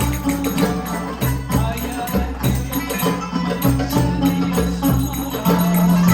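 Live instrumental folk-style music: held melodic notes over a steady hand-percussion beat with tambourine-like jingles, and a long low note near the end.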